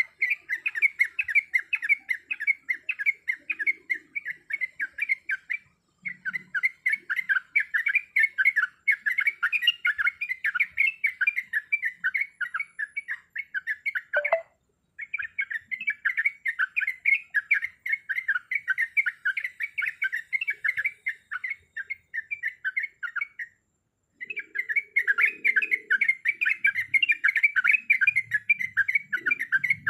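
Yellow-vented bulbul (trucukan) singing a fast, continuous chatter of bubbling notes. The song breaks off into brief silences three times.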